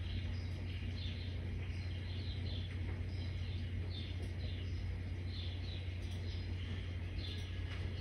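Small birds chirping, many short downward chirps one after another, over a steady low hum.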